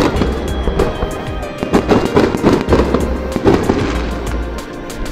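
Aerial fireworks shells bursting and crackling in a rapid string of sharp cracks, mixed with background music.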